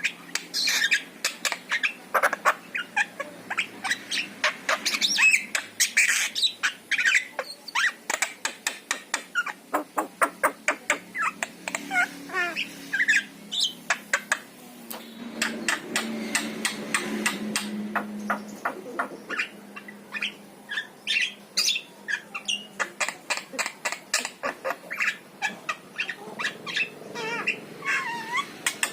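Javan myna (jalak kebo) calling: a long run of rapid clicks mixed with harsh squawky chatter and short whistled notes.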